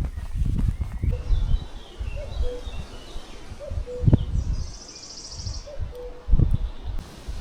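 Footsteps crunching and thudding unevenly along a forest trail. Birds sing over them, with a brief high trill about halfway through and a short low call repeated every second or two.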